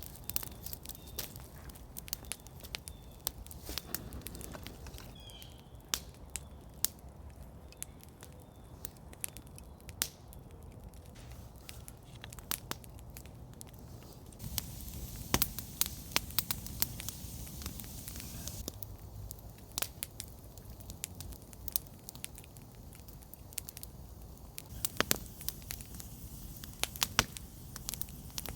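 Wood campfire crackling, with irregular sharp pops and snaps. The pops come thicker and louder for a few seconds past the middle.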